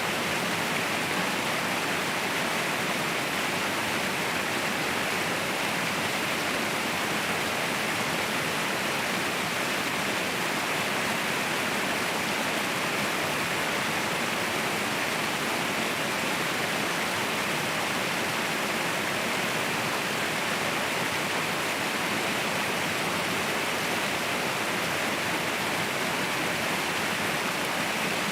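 Mountain waterfall: water falling with a steady, even rushing noise that stays the same throughout.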